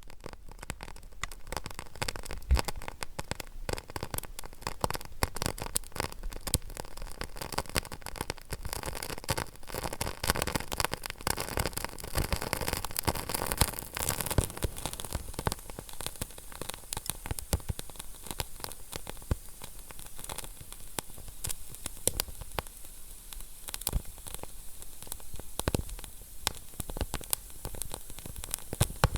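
Wood fire crackling in a fireplace: dense, irregular pops and snaps over a steady hiss.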